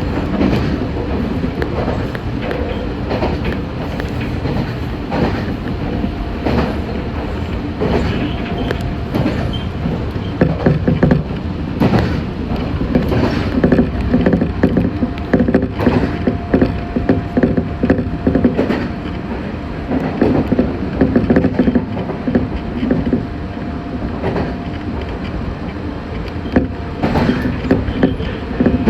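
Meitetsu 6500 series electric train running along the line, heard from inside the car: steady running noise with wheels knocking over rail joints again and again, and a faint steady whine that comes and goes.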